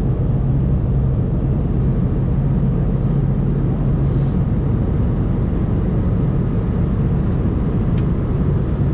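Steady engine and airflow noise inside the cabin of an Embraer E190-E2 airliner with Pratt & Whitney PW1900G geared turbofans, with a low hum that eases about halfway through.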